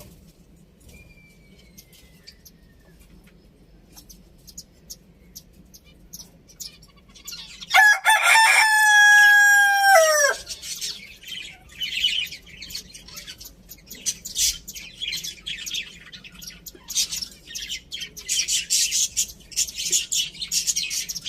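A rooster crows once, a loud call about two and a half seconds long starting about eight seconds in, its pitch dropping at the end. Afterwards, rapid high-pitched chirping from small birds fills the rest.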